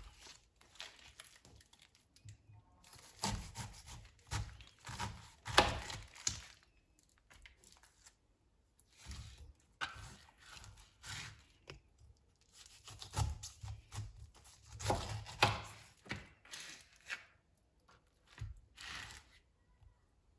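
Intermittent tearing and rustling noises, coming in two bouts of several seconds each with quiet pauses between.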